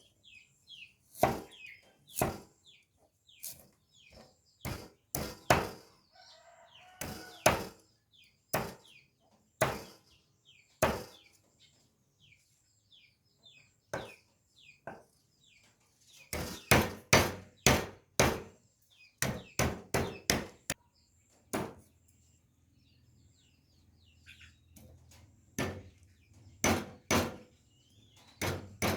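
A heavy kitchen knife chopping on a board in irregular strokes, with quick runs of strokes about seven seconds in and again from about sixteen to twenty-one seconds. Small birds chirp throughout, and a chicken calls once about seven seconds in.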